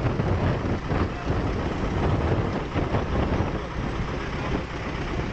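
Motorboat engine running steadily, a constant low rumble mixed with rushing noise.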